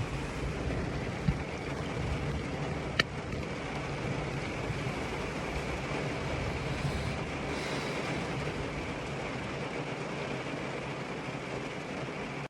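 Heavy rain falling steadily, a continuous even hiss of downpour. A single short click about three seconds in.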